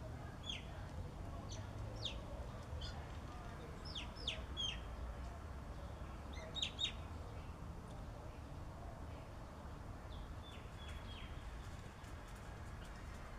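Wild birds giving scattered short, high chirps, a few at a time, with small clusters about four seconds in, near the middle and toward the end, over a low steady background rumble.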